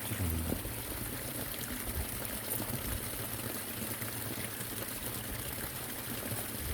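Stream water pouring steadily over a weir.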